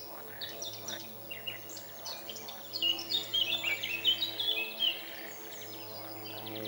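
Songbirds chirping in quick runs of short notes, loudest in the middle, over a steady low droning call from frogs.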